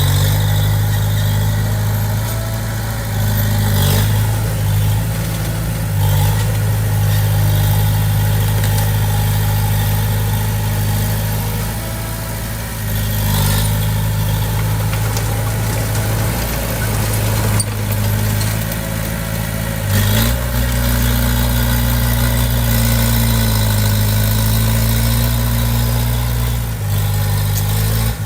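Komatsu D20P bulldozer's diesel engine running steadily under load, its pitch and note shifting about twenty seconds in, with a few knocks from the machine.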